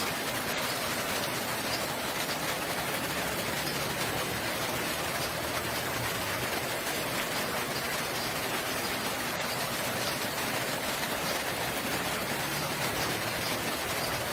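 Steady rain falling, an even hiss with scattered drips.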